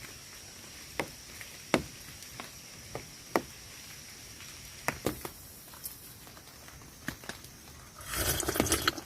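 Scattered single drops tapping on tent fabric over a steady hiss of rain, with a brief rustle of fabric near the end.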